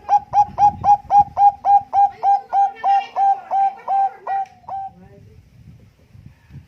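Zebra dove of the Bangkok perkutut line singing: a fast, even run of short coos, about four a second, that slows slightly and stops about five seconds in.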